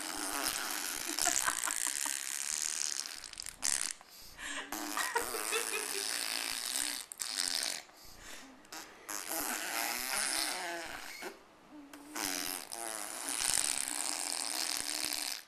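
A baby blowing long, wet raspberries, buzzing her lips like a motorbike engine, in several long bursts with short pauses between them.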